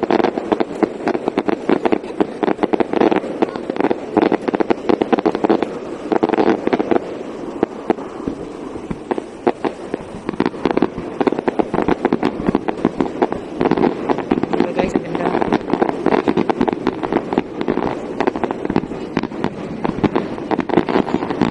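Fireworks display: a dense, continuous barrage of bangs and crackling from bursting shells. It eases a little about eight to ten seconds in, then builds again.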